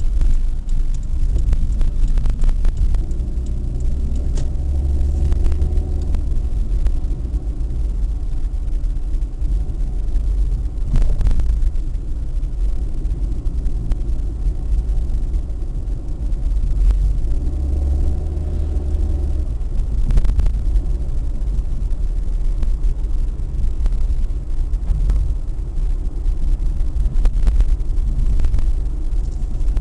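A road vehicle travelling in traffic: a steady, loud low rumble with an engine note that rises and swells twice, as if speeding up, and a few brief clicks.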